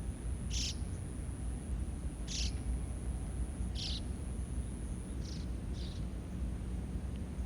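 Five short, high, raspy animal calls at irregular intervals over a steady low rumble.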